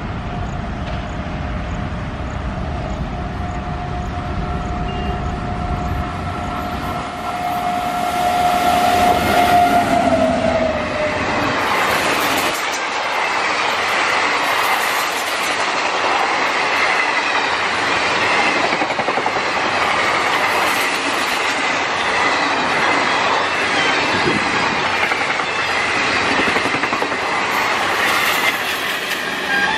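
WAP7 electric locomotive's horn held for about eight seconds as the express approaches, dropping in pitch as the locomotive passes. The passenger coaches then rush past at high speed with a continuous rhythmic clatter of wheels over the rail joints.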